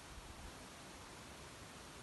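Near silence: a faint, steady hiss, with a couple of soft low bumps about half a second in.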